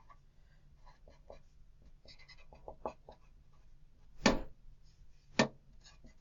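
Pen writing names on a worksheet: a run of short, soft scratching strokes, with two louder sharp taps a little past the middle.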